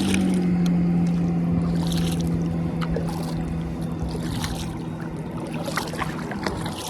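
Motorboat engine running with a steady hum that drops slightly in pitch and fades away as the boat moves off. Water swishes about every two seconds, like paddle strokes.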